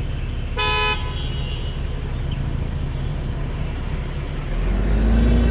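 City street traffic running steadily, with one short car horn toot about half a second in. Near the end a vehicle passes close, its low engine rumble swelling and rising slightly in pitch.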